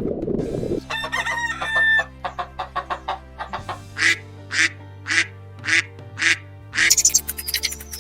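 Poultry calling over background music: a drawn-out call of about a second near the start, then a quick run of short notes, then five short, sharp calls evenly spaced about half a second apart.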